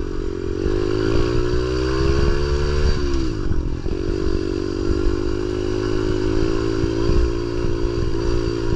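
Pit bike engine running under throttle while riding. Its pitch climbs for about three seconds, falls away suddenly, then holds fairly steady over a constant low rumble.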